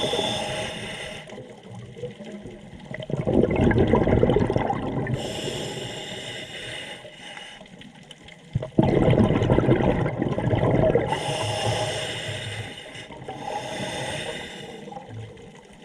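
Scuba diver breathing through a regulator underwater: hissing inhalations alternate with gurgling bursts of exhaled bubbles, about three breath cycles.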